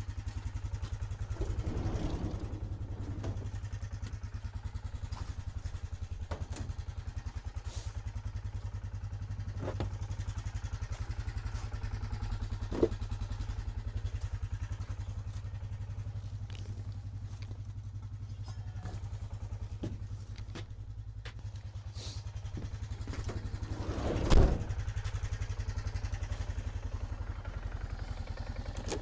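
A small vehicle engine running steadily, with occasional knocks and rattles, a sharp knock about halfway through, and a louder thump near the end.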